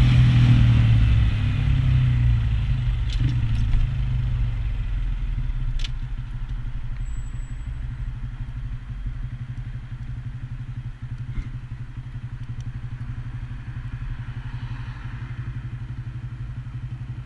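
Honda Grom's small single-cylinder four-stroke engine coming off the throttle as the bike slows over the first few seconds, then idling steadily with an even pulse.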